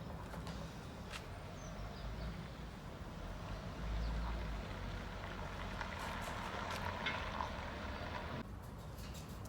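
Garbage truck engine running with a steady low rumble and scattered knocks; a louder stretch of mechanical noise builds past the middle and cuts off suddenly near the end.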